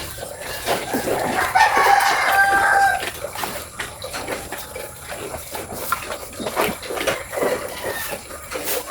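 A rooster crows once, a single drawn-out call about a second and a half in, among scattered clicks and knocks.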